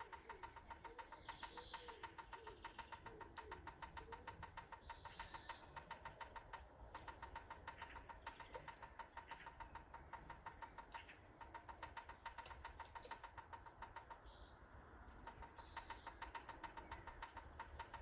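Faint garden ambience in which a small bird gives short high call notes four times. Under it runs a faint, rapid, even pulsing.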